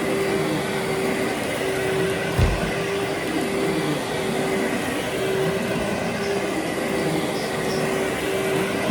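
Vacuum cleaner running steadily over carpet, its motor giving a steady whine under a loud rush of air, with one short low thump about two and a half seconds in.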